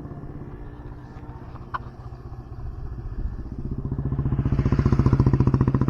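Motorcycle engine running with an even, rapid beat, growing louder from about four seconds in.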